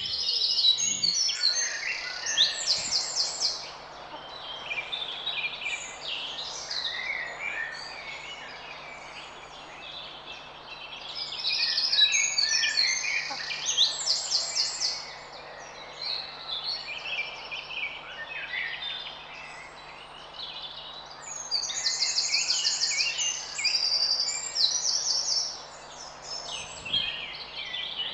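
Several garden birds singing and chirping at once, with rapid trills and repeated short notes that swell in busy bouts and ease off between them, over a faint steady low hum.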